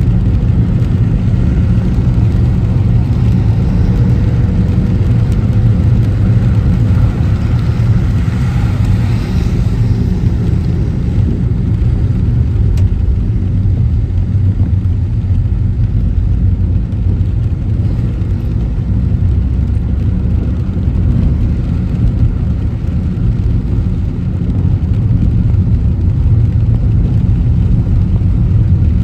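Car driving on city streets: a steady low rumble of engine and road noise, with a brief rush of noise swelling and fading about eight to ten seconds in.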